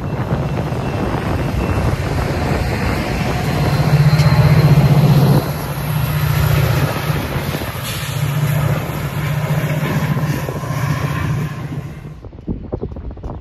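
A Metra commuter train rolling past close by: steel wheels on the rails under the bilevel cars, then the EMD F40PH diesel locomotive passing with its engine running, a steady low hum that is loudest about four to five seconds in. The sound drops sharply near the end.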